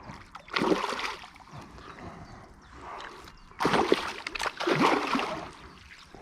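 Water splashing in irregular bursts, about a second in and again around four and five seconds: a hooked pike thrashing at the surface near the angler.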